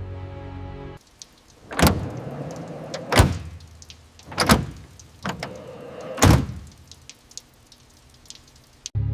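Music cuts off about a second in, followed by four loud knocks spread over about five seconds, with faint clicks and rattles between them.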